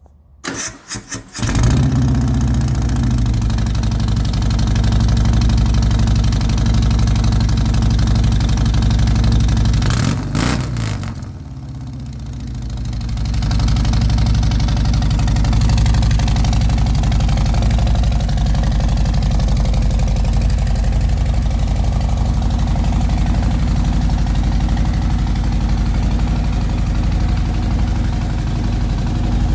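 Harley-Davidson Milwaukee-Eight V-twin on a 2019 Softail Deluxe, running through a new Samson aftermarket exhaust. The starter cranks briefly, the engine catches in under two seconds and settles into a deep idle. Around eleven seconds in it drops in level for a couple of seconds, then picks back up to a steady idle.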